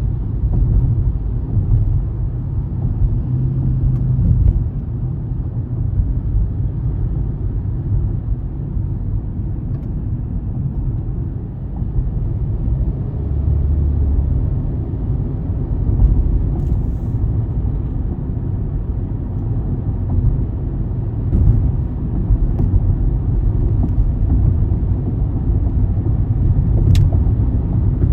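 Steady low rumble of a car driving, road and engine noise heard from inside the moving vehicle, with a faint click now and then.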